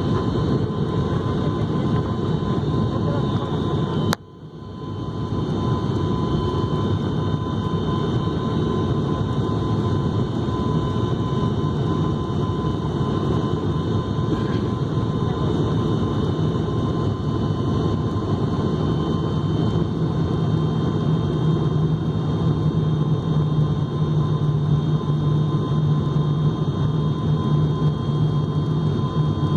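Airplane engines running with a steady noisy drone and a few steady whining tones during a landing. About four seconds in there is a click and the sound briefly drops away, and a low hum grows stronger in the second half.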